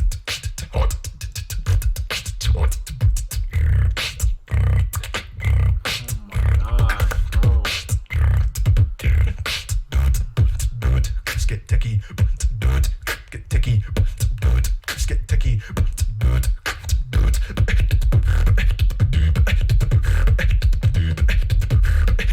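Beatboxing: a fast, dense run of vocal kicks, snares and clicks over deep bass, with quick changes of pattern.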